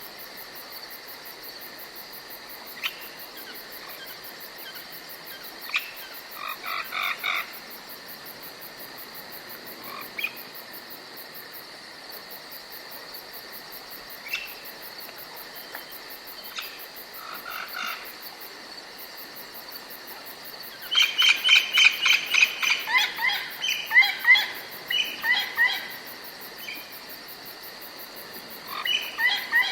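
Forest ambience: a steady high trilling of crickets, with short bird chips and bursts of rapid bird calls, the loudest run of calls coming about two-thirds of the way through and another near the end.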